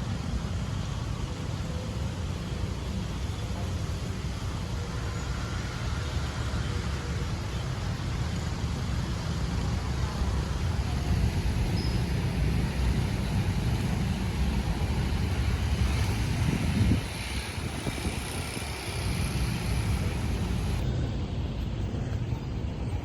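Steady road traffic noise with a heavy low rumble, dipping briefly about 17 seconds in.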